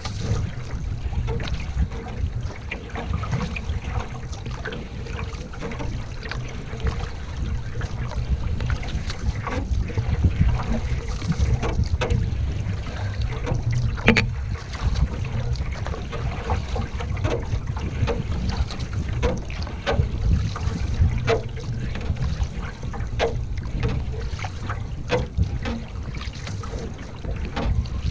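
Canoe paddling with wind buffeting the microphone: a steady low rumble of wind, with small knocks and water sounds from the paddle strokes coming about every two seconds in the second half, and one sharper knock about halfway.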